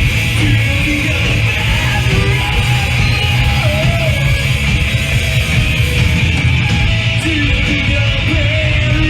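Live emo/hardcore band playing loud, with distorted electric guitars and drums.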